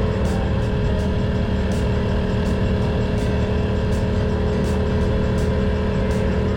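Ducati Monster 620's air-cooled L-twin engine running at steady revs while cruising, with wind noise over it.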